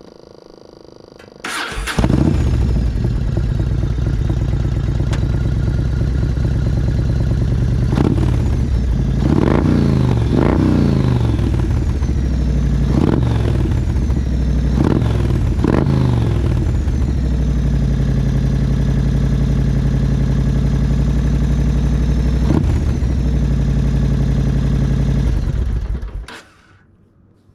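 1999 Yamaha Road Star's air-cooled V-twin through Freedom Exhaust 4-inch true dual pipes. The starter cranks briefly, then the engine catches and idles loudly. It is blipped up several times, idles again and is switched off near the end.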